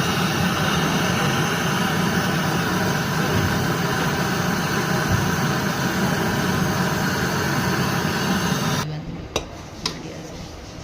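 Brazing torch flame hissing steadily on a copper pipe joint, cutting off abruptly about nine seconds in; two sharp clicks follow about half a second apart.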